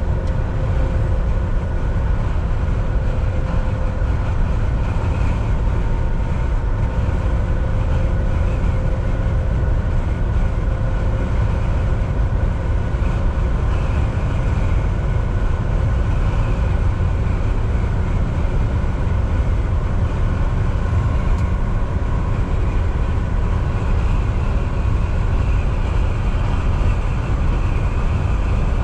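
Volvo VNL 760 semi truck driving at highway speed, heard from the cab: a steady low engine drone mixed with road and tyre noise.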